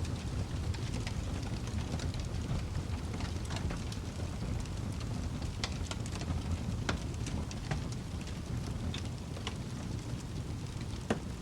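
Wood fire crackling in a fireplace: irregular sharp pops and crackles over a steady low rumble, with a louder pop near the end.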